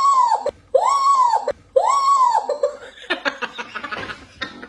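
A high-pitched squeal, made three times in a row, each one rising and then falling. After it come a few seconds of laughter.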